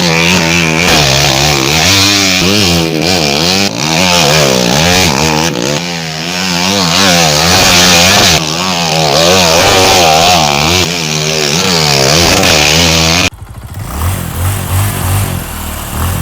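Trail motorcycle engine revving hard over and over, its pitch rising and falling with the throttle. It cuts off abruptly about thirteen seconds in, giving way to a quieter, lower engine sound.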